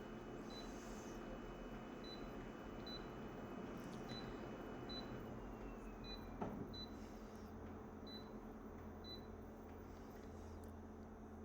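Faint steady hum with short, high-pitched electronic blips every half second to a second, and a single click about six seconds in.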